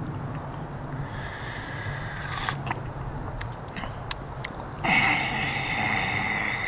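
A person eating close to the microphone: chewing and biting food, with a few sharp crunchy clicks in the middle. A louder hissing sound lasting about two seconds comes near the end.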